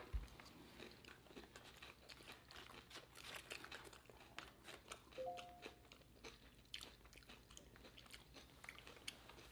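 Faint, irregular crunching and chewing of crispy fried chicken, with a brief faint two-note tone about five seconds in.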